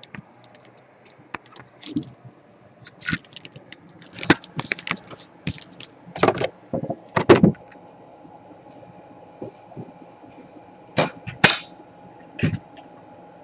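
Small tools and parts being handled and set down on a workbench during a laptop repair: scattered clicks and clatters, busiest from about four to eight seconds in and again near the end.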